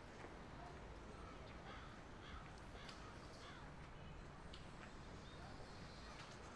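Faint outdoor ambience with a few short bird calls between about one and a half and three and a half seconds in.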